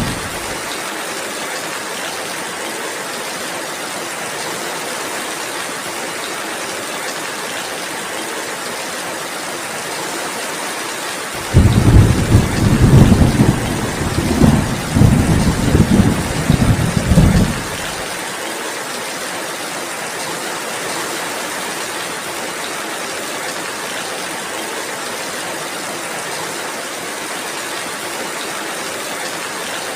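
Steady rainfall hissing throughout, with a loud, uneven rumble of thunder from about eleven to eighteen seconds in.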